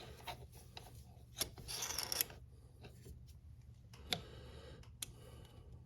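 Light scattered clicks and a brief scraping rub as a motorcycle drive chain is handled, pushed and lifted against a ruler while its slack is measured.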